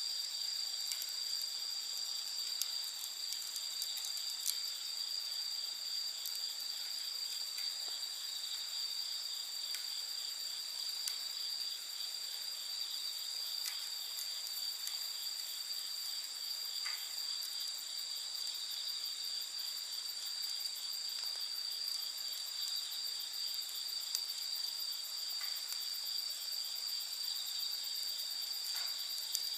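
A steady, high-pitched chorus of night insects such as crickets, with faint scattered pops and crackles from a wood campfire every few seconds.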